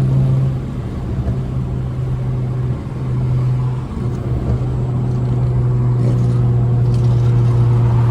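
Straight-piped V6 Honda Accord's exhaust droning steadily while driving, with brief dips in loudness about a second in and again around three and four seconds in.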